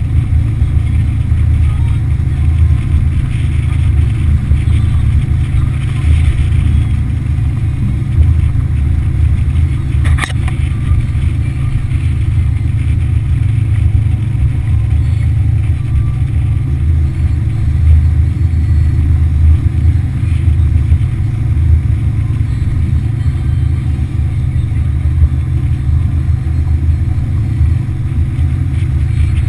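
Motorboat under way, its Yamaha F60 four-stroke outboard running steadily under a heavy, steady low rumble, with a single sharp click about ten seconds in.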